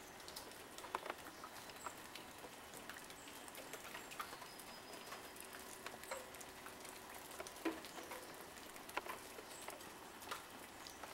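Snowstorm precipitation pattering and ticking on surfaces: many small irregular clicks over a faint hiss, with a few sharper ticks standing out, a clattering sound.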